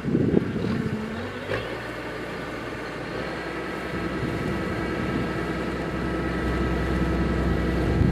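Kubota DC-105X rice combine harvester's diesel engine and threshing machinery running steadily with a mechanical hum. The low rumble grows stronger toward the end, and wind buffets the microphone at the very start.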